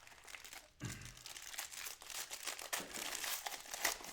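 Plastic wrapper of a trading-card pack crinkling and tearing as it is opened and handled, in quick dense crackles, with a soft knock about a second in.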